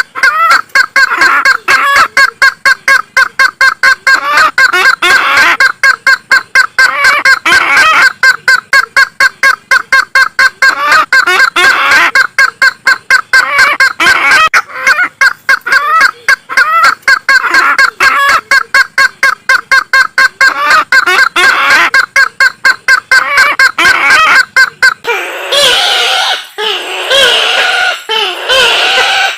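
Kareo sulawesi (Sulawesi waterhen) calling: a long series of fast repeated notes, about four a second. About 25 seconds in it switches to a louder, jumbled cackling chorus.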